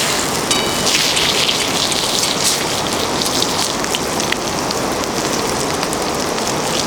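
Kuroge wagyu rib roast sizzling over a wood campfire: a steady hiss dotted with many small crackling pops of spitting fat.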